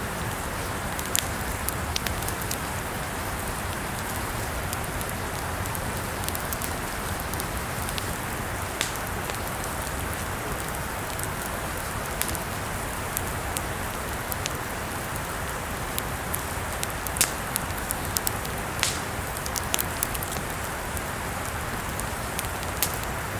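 Campfire burning: a steady hiss of the flames with irregular sharp crackles and pops of the wood.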